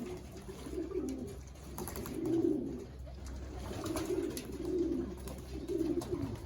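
Domestic racing pigeons cooing, a run of low coos about one a second.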